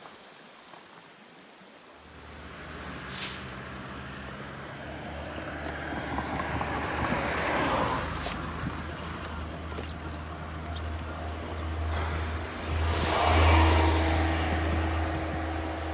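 Road vehicles: a steady low engine hum starts about two seconds in, and two passing vehicles swell up and fade away, the second louder, near the end.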